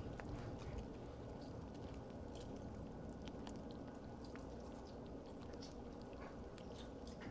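Faint chewing and wet mouth clicks of a person eating a cheesy mukbang meal, with scattered small clicks over a low hum.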